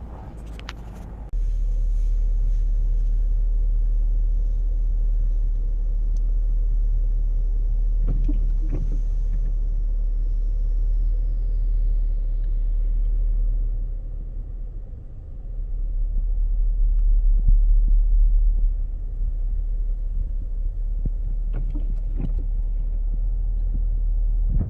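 Low steady rumble of a Nissan Titan pickup driving through snow. It jumps up suddenly about a second in, dips briefly a little past the middle, then swells louder for a few seconds before settling.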